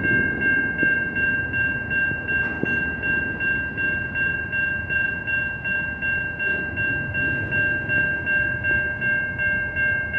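Level crossing warning bell ringing in a steady pulse, about two strikes a second, over the low rumble of a train passing over the crossing.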